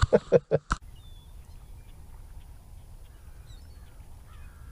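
A few sharp knocks in the first second, then faint calls of distant birds, several short sliding calls repeated over steady low outdoor background noise.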